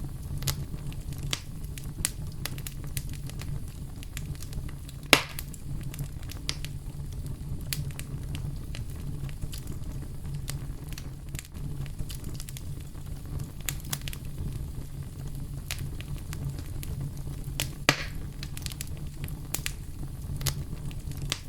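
Campfire crackling and popping over a steady low brown-noise rumble. Two pops stand out, about five seconds in and again near the end.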